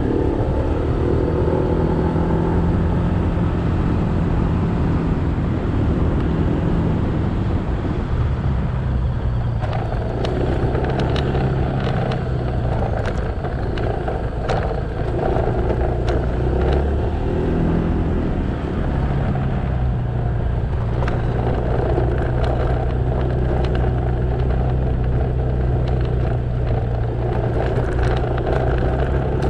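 Motorcycle engine running steadily while riding, with road noise. The engine note shifts about a third of the way in and again a little past halfway. There are scattered short knocks in the middle.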